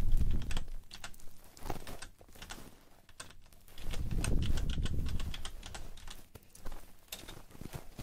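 Close-miked ASMR sounds: many quick, crisp clicks and taps, with two bouts of low rubbing on the microphone, one at the start and one around the middle.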